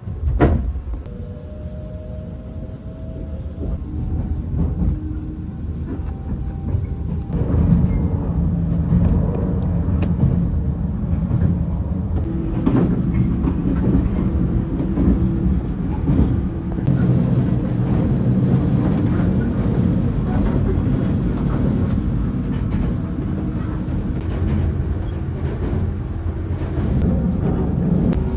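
Steady low rumble of the WEST EXPRESS GINGA, a converted 117-series electric train, running on the rails, heard inside a passenger compartment. It grows louder several seconds in and then holds steady, after a sharp click at the very start.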